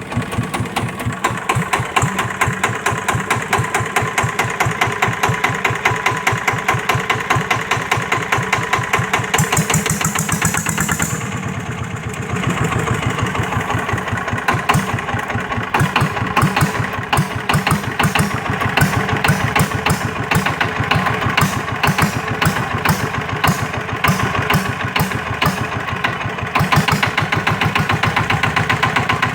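A small engine running steadily with a fast, even chugging pulse, with a brief hiss about ten seconds in.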